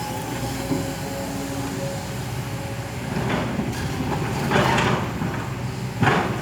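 Kobelco excavator working: the engine runs steadily with a faint whine above it, broken by three short rushing, scraping noises, the longest about halfway through.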